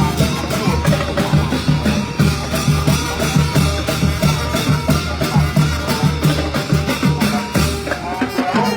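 Thai street brass band (trae wong) playing a lively tune, horns over a steady beat of bass drum and percussion.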